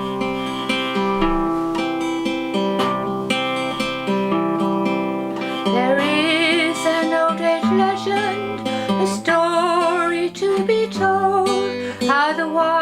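Acoustic guitar playing a folk-song introduction; about halfway through, a woman's voice joins it, singing with vibrato.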